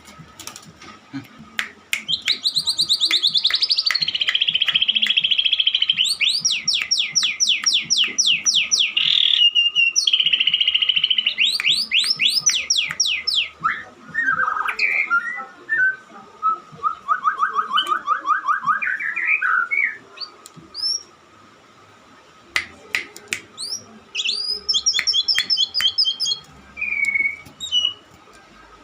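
White-rumped shama (murai batu) singing: long runs of rapidly repeated high notes, then lower warbling phrases and short whistles, with sharp clicks scattered between phrases.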